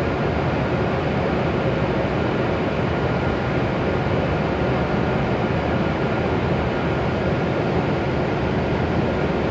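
Steady rumble and hiss of a Hokuriku Shinkansen W7 series train approaching the station, even in level with no distinct knocks or tones.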